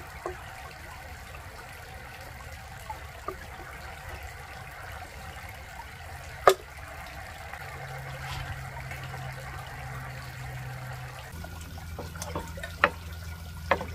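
Rau sâm đất (waterleaf) greens sautéing with garlic in a frying pan, simmering and sizzling in the liquid they have released: a steady watery hiss. A single sharp click about six and a half seconds in, and near the end a few clicks of chopsticks against the pan as the greens are stirred.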